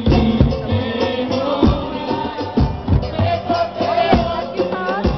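Band music: drums hitting on a steady beat, with a voice or lead instrument carrying a melody over them.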